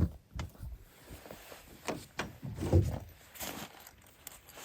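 Irregular knocks, thumps and rustling of things being handled or moved about, with one louder low thump about three quarters of the way in.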